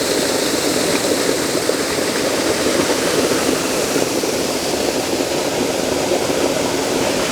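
Waterfall rushing steadily, with the even, unbroken noise of falling white water.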